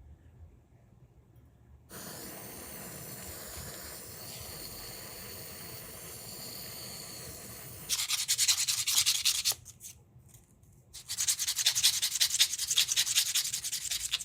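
A small shop machine running steadily for several seconds, then harsh scratchy abrasive rubbing on a small workpiece in two spells, one of about a second and a half and one of about three seconds, with a short pause between.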